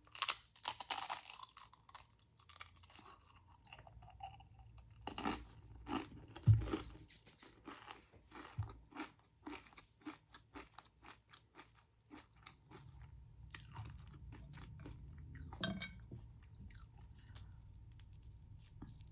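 Close-up crunchy bites and chewing of a deep-fried Korean corn dog's crispy coating. Crisp crunches come at the start, a loud cluster about five to seven seconds in and another near the end, with softer chewing between.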